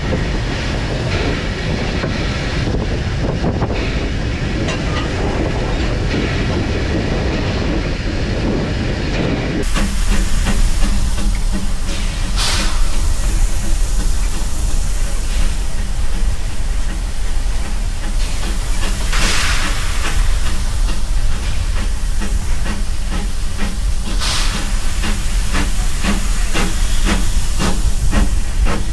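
Steam locomotive working close up: steady steam hiss over a deep rumble, with rhythmic knocks. About ten seconds in the sound changes abruptly to a brighter one, and three loud bursts of hissing steam follow a few seconds apart.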